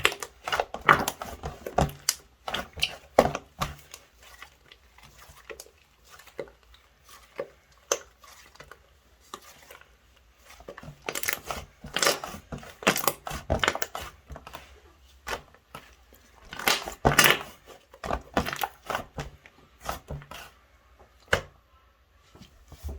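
White slime being squeezed and pressed by hand, giving irregular bursts of crackling and popping clicks. It goes quieter for several seconds partway through, then comes back in louder clusters.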